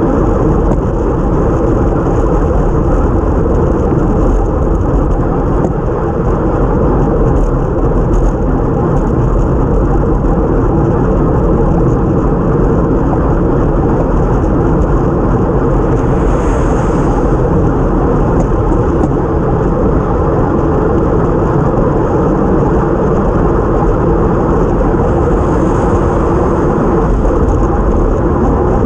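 Steady wind noise buffeting the microphone of a bike-mounted GoPro action camera at race speed, mixed with tyre noise on a wet road; twice, about halfway through and near the end, a brief hiss rises over it.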